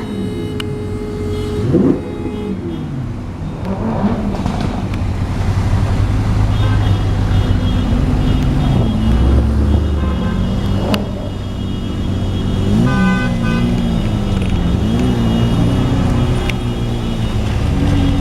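Car engines running and revving in traffic, their pitch rising and falling, with short car horn toots along the way.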